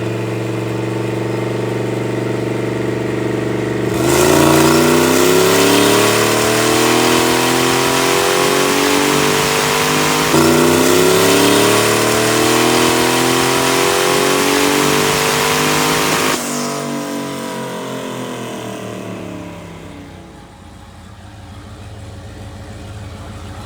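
Turbocharged V8 engine running a full-throttle pull under load. It idles for about four seconds, then its note climbs steadily, dips briefly about ten seconds in and climbs again. About sixteen seconds in the throttle closes and the engine winds down to idle.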